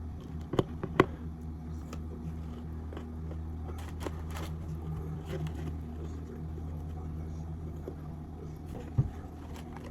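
A person hiccuping: a couple of sharp hics about a second in and another near the end, over a steady low hum.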